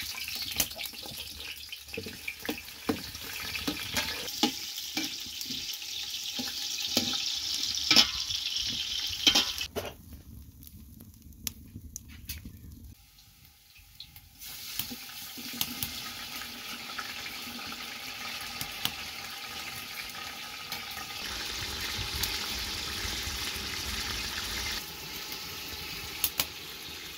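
Onions frying in oil in an aluminium pot, a steady sizzle with sharp metal knocks and scrapes from a skimmer stirring them. The sizzle drops away for a few seconds about ten seconds in, then picks up again as chopped tomatoes go into the pot.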